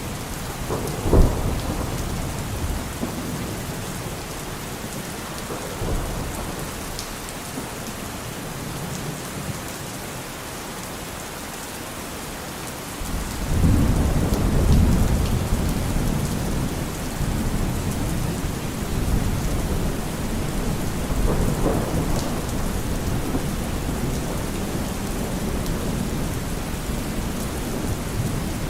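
Steady rain with thunder: a sharp thunderclap about a second in, then a long low rolling rumble that starts about halfway through and keeps going, with another swell near the end.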